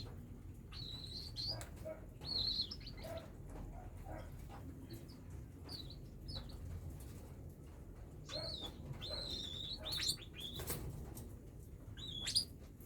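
Young cockatiels chirping: short, high calls that come in several bursts, mixed with scattered sharp clicks and taps.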